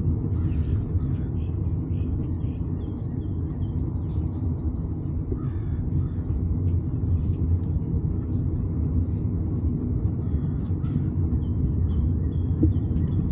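Steady low wind rumble buffeting the microphone while riding a bike, with faint short high chirps now and then.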